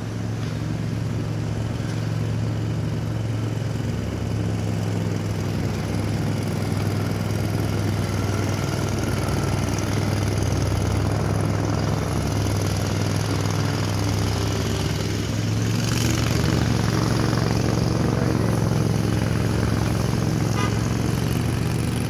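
Lawn mower engine running steadily, a continuous low drone that grows slightly louder about two-thirds of the way through.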